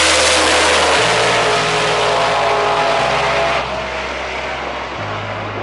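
A drag-racing car's engine at full throttle, loud, with the sound dropping away about three and a half seconds in.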